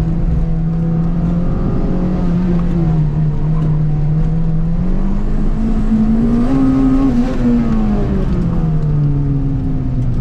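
Turbocharged Honda K-series four-cylinder of an Acura RSX Type-S running hard under load. Engine pitch holds, dips slightly, then climbs to a peak about seven seconds in and falls away near the end.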